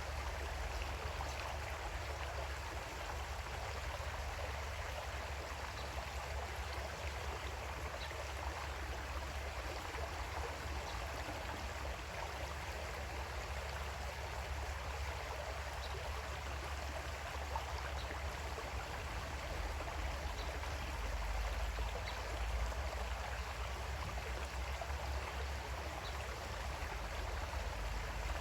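Creek water flowing steadily over rocks, a continuous rushing and gurgling with a low rumble beneath.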